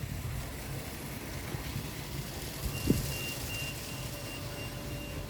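A high electronic warning beep starts repeating about two and a half seconds in, over a steady low rumble. There is a single soft thud about three seconds in.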